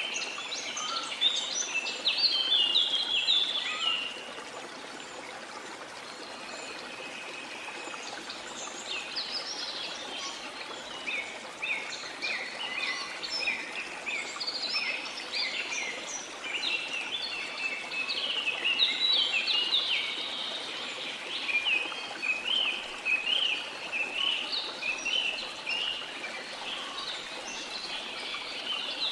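Birdsong: many short, quick chirps and trills from small birds over a steady hiss, with a few seconds' lull in the calling about four seconds in.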